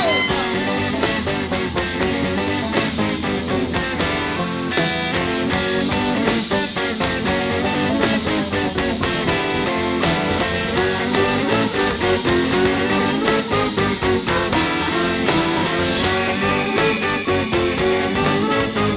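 Rock band playing live: an instrumental passage with no singing, with a steady beat throughout.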